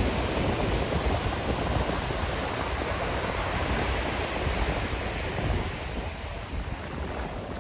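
Ocean surf washing on the shore, a steady rush of water noise that eases off near the end.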